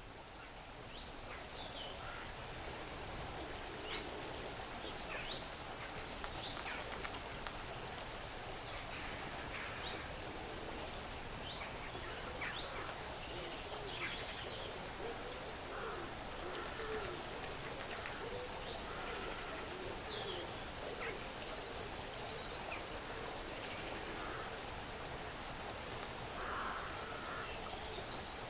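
Woodland ambience with many small birds calling: scattered short chirps and quick sliding notes, with thin high trills now and then, over a steady soft hiss. It fades in over the first second or two.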